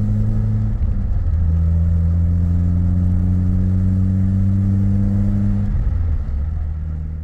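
Citroën BX 16-valve's four-cylinder engine running at a steady speed. Its pitch drops a little about a second in and rises again near the end.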